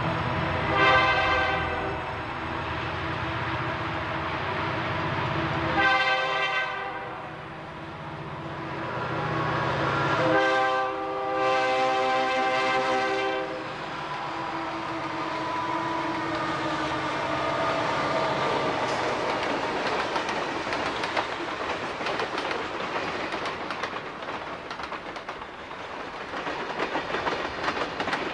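Southern Pacific diesel freight locomotives passing with their air horns sounded three times, the last blast long, over a low engine rumble. Then the freight cars roll by with a steady rattle and wheels clicking over the rail joints.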